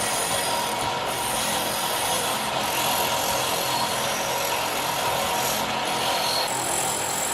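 Continuous abrasive rubbing of a tool against the metal of the rust-pitted revolver during rust removal. It is a steady grinding hiss with a faint steady whine running through it.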